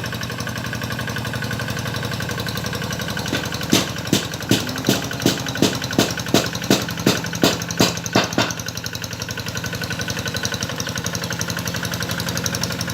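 Paddy-field tractor engine running steadily while ploughing. A quick series of about a dozen sharp knocks, two or three a second, runs over it for about five seconds from a few seconds in.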